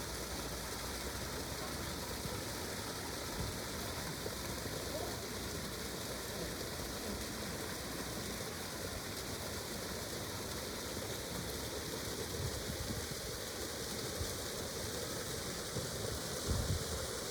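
Steady outdoor background noise: an even rushing hiss with no distinct events, and a few faint low knocks near the end.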